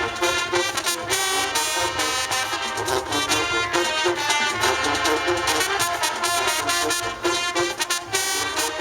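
High school marching band playing, the brass section (trumpets and trombones) carrying the tune over steady drum hits.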